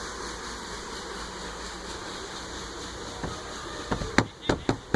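Steady rush of flowing water around a ride boat. About four seconds in, a quick run of sharp knocks starts, three or four a second.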